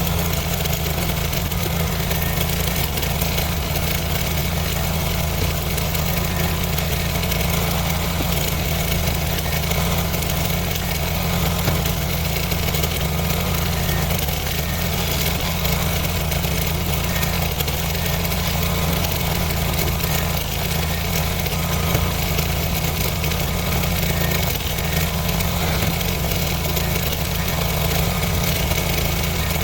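An engine idling steadily, with no change in speed or load.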